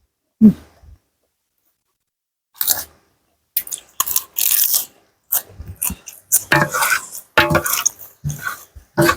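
A person chewing mouthfuls of tam sua, a spicy salad with rice noodles and pickled seafood, with crunchy, wet mouth sounds. The chewing comes in irregular bursts: one about half a second in, then a pause of about two seconds, then steady chewing from about three and a half seconds on.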